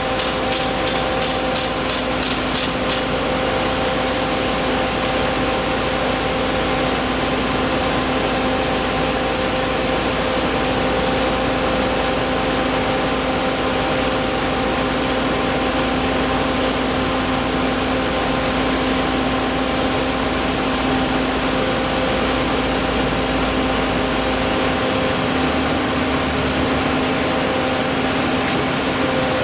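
A machine running at a steady speed: a constant hum that holds one pitch, over a loud, even rushing noise.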